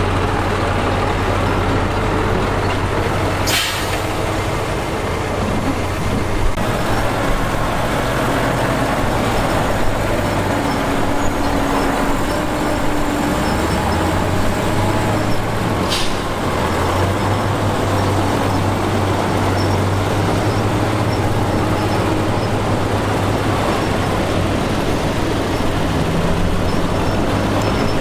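Heavy diesel engines of earthmoving machines running steadily, their pitch shifting now and then. Two short air hisses come about three and a half seconds in and again about sixteen seconds in, typical of a truck's air brakes.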